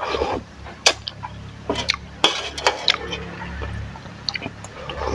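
Metal utensils clinking against a pot and bowls, with liquid being ladled or poured, as noodle soup broth is served. Several sharp clinks come at irregular moments over a low steady hum.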